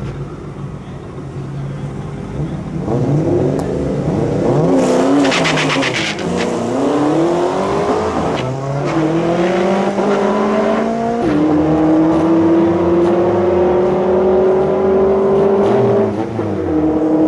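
2004 Mustang SVT Cobra's built V8 with a 3.4 L Whipple supercharger at full throttle on a drag pass. The pitch climbs in each gear and drops at upshifts about six, nine and eleven seconds in.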